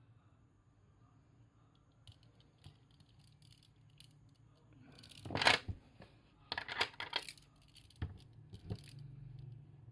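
Handling noise from stone bead bracelets and their packaging: a burst of clicks and rustling about five seconds in, another cluster of clicks a second later, and a couple of light clicks near the end.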